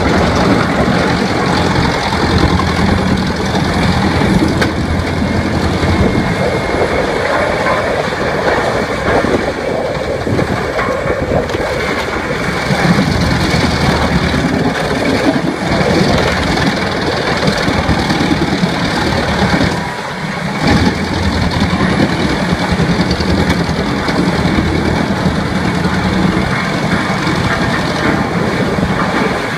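Heavy engine-driven machine running continuously under load, a steady engine hum under dense rattling noise, easing briefly about two-thirds of the way through.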